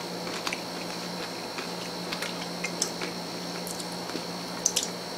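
Chewing candy-shelled M&Ms with the mouth closed: scattered small crunches and clicks over a steady low hum and a faint high whine.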